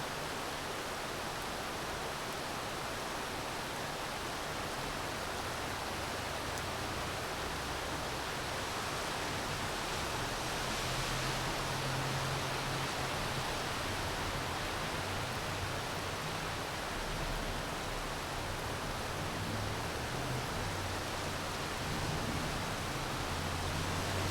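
Steady rainfall making an even, continuous hiss. From about halfway through, a low uneven rumble comes in underneath it.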